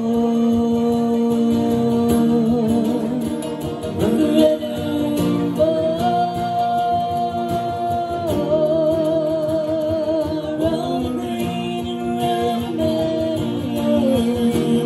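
Live Irish folk ballad: a slow melody of long held notes, some wavering with vibrato, over a steady strummed accompaniment.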